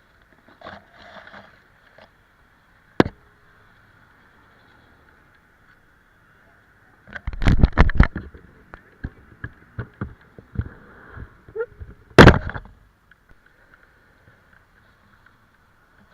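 Irregular loud knocks and thumps against the microphone: one about three seconds in, a dense run of them about seven to eight seconds in, and a single loud one near twelve seconds, over a faint steady hum.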